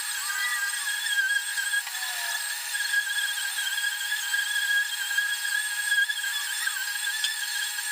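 Power tool running at high speed: a steady high-pitched whine that wavers slightly in pitch, typical of air tools used in auto body work.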